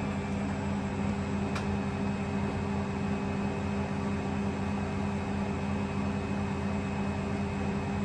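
Hoover Electra 530 washing machine on its spin cycle, the motor and drum running at a steady speed with a constant hum. A faint tick comes about a second and a half in.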